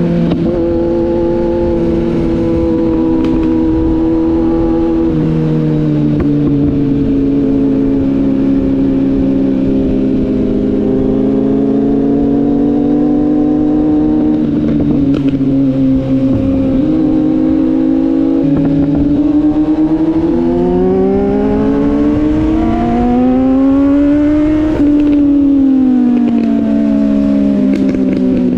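Sport motorcycle engine running under way. Its pitch holds fairly steady for most of the stretch, climbs for several seconds about three-quarters through, then drops away again, with wind noise underneath.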